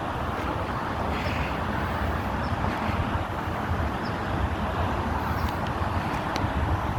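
Steady outdoor rumble and hiss, strongest in the low end, with a few faint, short bird chirps scattered through it.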